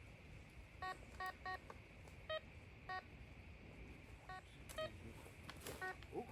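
Metal detector giving short target beeps, about eight in all, at two slightly different pitches, as the coil sweeps over buried metal.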